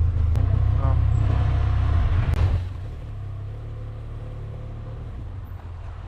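Motorcycle engine running with a steady low rumble, which drops to a quieter level about two and a half seconds in.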